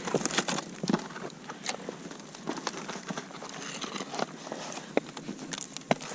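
Footsteps crunching in snow, uneven crunches and clicks a few times a second.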